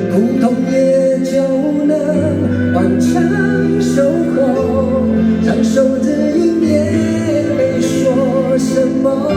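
Live band music at an arena concert: sustained bass notes shifting every couple of seconds under held chords, with light cymbal-like strokes about once a second.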